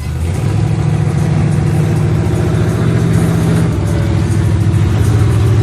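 Mud-drag truck's engine running loud and steady, its pitch stepping up about half a second in.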